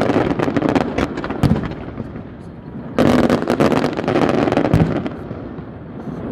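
Fireworks bursting: rapid crackling and popping from shells, in two dense spells, the second starting about three seconds in, with a few deeper booms among them.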